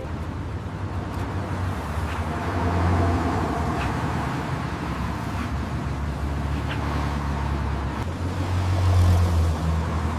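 Road traffic: a steady low rumble of vehicles with a haze of road noise, swelling twice as vehicles pass, about three and nine seconds in.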